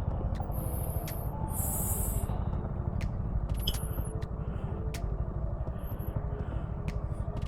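Motorcycle ride noise from a Suzuki V-Strom SX 250: a steady low rumble of engine and wind buffeting on the mic, with a few light ticks.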